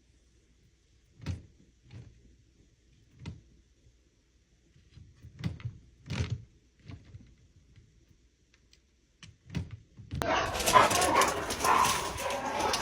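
A few soft, scattered knocks, then about ten seconds in a dog starts barking loudly.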